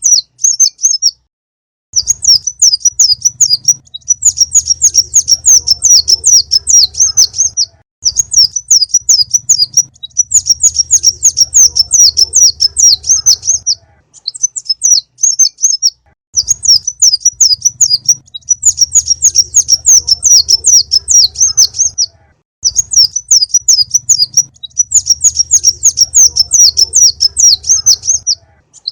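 Recorded konin (sunbird) song: fast runs of high, sharp chirps and trills in phrases a few seconds long with brief pauses between, played loud as a lure call to trap the bird. A low hum sits under each phrase.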